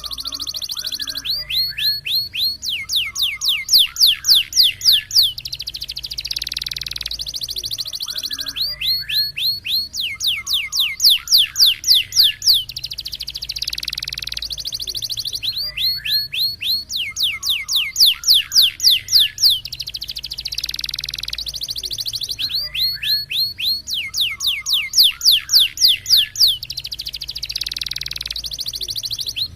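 Domestic canary singing: four bouts of rapid, evenly repeated falling whistled notes, about seven seconds apart, with a continuous rolling trill between them. This is the 'roll tembak' song style.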